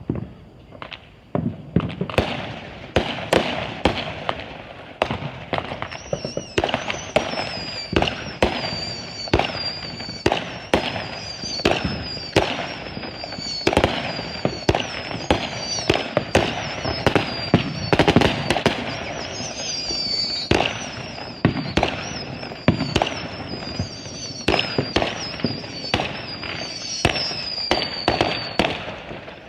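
Consumer fireworks going off in a rapid string of sharp bangs and crackles. From about six seconds in, a high whistle that falls in pitch repeats about once a second, each one cut off by a bang.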